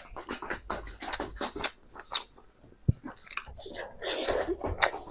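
A person chewing Naga-style pork close to the microphone: a quick, irregular run of wet clicks, with a longer noisy stretch about four seconds in.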